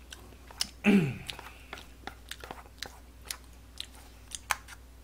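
Close-miked chewing of a mouthful of jjajangmyeon noodles: wet mouth clicks and smacks a few times a second. A short falling vocal hum comes about a second in.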